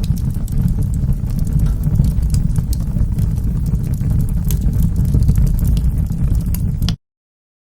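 Wood fire burning in a fireplace: a steady low rumble with scattered sharp crackles and pops. Near the end the sound cuts out to complete silence.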